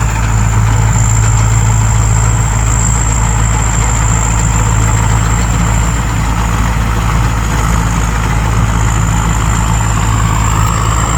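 Combine harvester engine running steadily, a low hum with a constant high-pitched whine over it.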